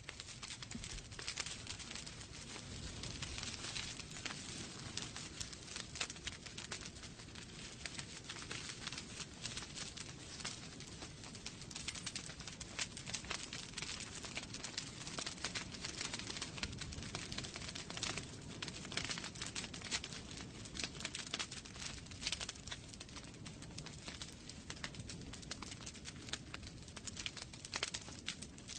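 Wood fire burning in a fireplace, crackling with many small irregular pops and snaps over a low steady rumble.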